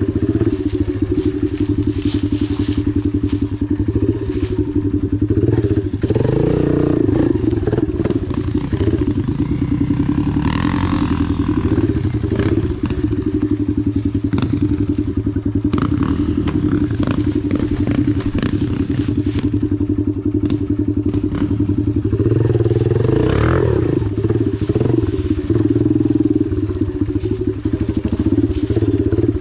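Dirt bike engine running at a steady low speed, revved up twice, about six seconds in and again about twenty-three seconds in, with scattered clicks and knocks.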